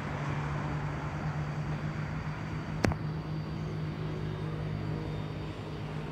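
Steady low mechanical hum, like an engine or motor running at a constant speed, with one sharp click about three seconds in.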